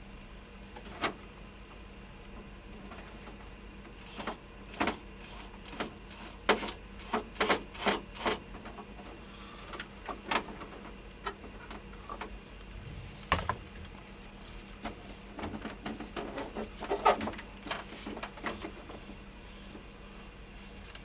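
Irregular sharp clicks and knocks of hands working on the portable air conditioner's parts and tools, thickest in the middle and again near the end, over a low steady hum.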